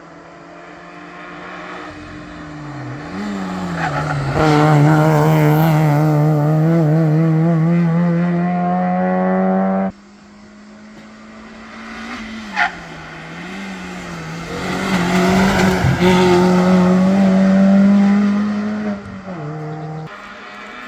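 Two rally cars, one after the other in separate shots. Each engine approaches revving up and down, then holds high revs and gets loud as it passes close by. A short sharp crack comes about twelve seconds in.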